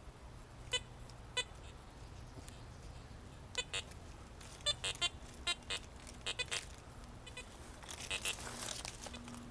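Metal detector giving short, sharp signal beeps in irregular clusters as it passes over buried metal. Near the end comes a rustle of leaves or soil being scraped.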